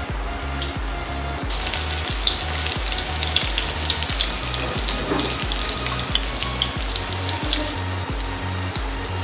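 Onion pakora batter frying in hot oil, a dense sizzle and crackle that grows louder about a second and a half in as more batter goes into the oil.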